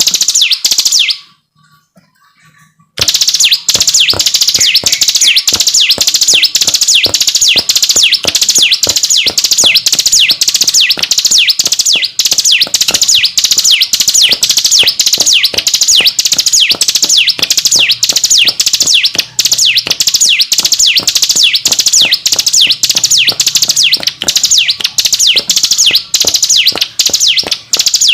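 Ciblek gunung songbird singing in the continuous 'ngebren' style: a long, unbroken series of quick, high notes, each sweeping downward, repeated about three times a second. It breaks off about a second in and resumes about three seconds in.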